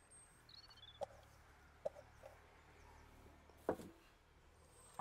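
Faint short bird chirps over a low steady hum, with a few soft knocks, the loudest about three-quarters of the way through.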